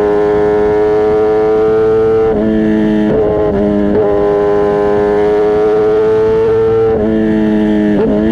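Kawasaki Ninja ZX-10R inline-four engine and exhaust running at high revs under way. Its pitch climbs slowly and dips briefly about two, three, seven and eight seconds in as the throttle or gear changes.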